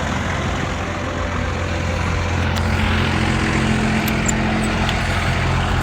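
A 1990 Dodge W250's 12-valve Cummins inline-six diesel running with a steady, even drone.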